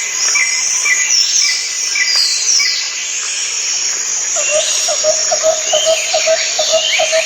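Birds chirping, many high calls overlapping, with a lower repeated chirp joining about halfway through at roughly four a second.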